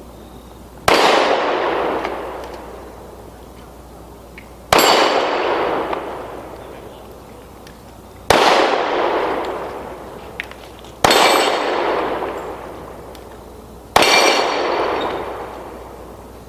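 Five pistol shots a few seconds apart at steel targets, each a sharp crack followed by a ringing tail that fades over about two seconds.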